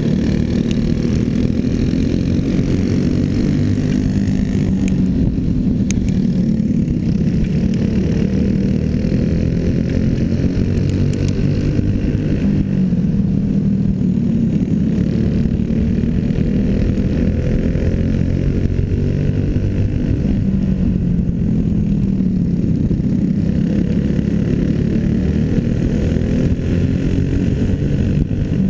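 Small racing engine running hard through a heat race, its pitch falling and climbing again every several seconds as it slows for the corners and accelerates out of them.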